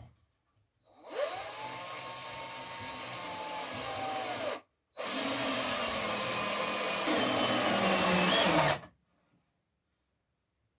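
Power drill running in two bursts of about three and four seconds with a short pause between; the pitch of the second sinks near its end.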